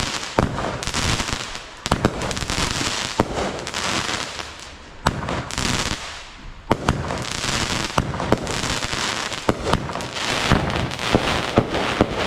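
Fireworks going off: a steady crackling hiss of burning effects, broken by many sharp cracks and bangs at irregular intervals.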